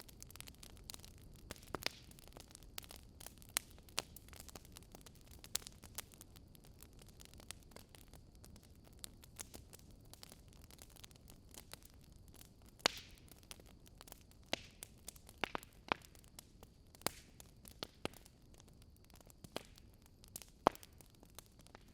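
Wood fire burning in a fireplace, logs crackling and popping at irregular intervals over a low steady hiss, with a few sharper pops in the second half.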